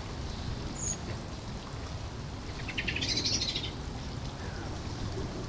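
A bird calling: a short high chirp about a second in, then a buzzy, rattling call lasting just under a second in the middle, over a steady low rumble.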